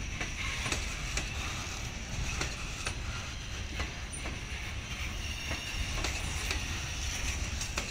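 Boxcars of a long freight train rolling past: a steady low rumble with scattered clicks of wheels over the rail joints and a high, steady wheel squeal.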